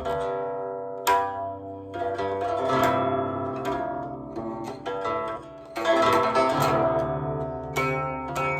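Solo plucked Chinese zither playing a flowing passage. Quick runs of plucked notes ring on between slower single notes.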